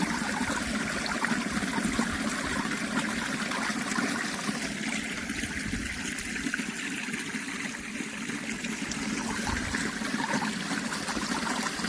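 Flowing water trickling steadily, an even rushing sound with small splashes.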